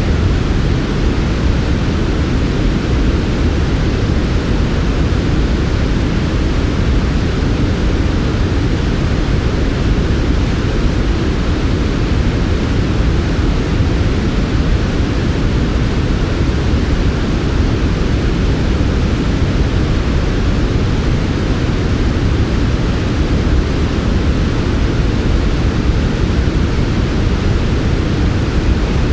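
Steady synthesized noise sleep track: an even, unchanging hiss with most of its weight in the low end, softer than true white noise.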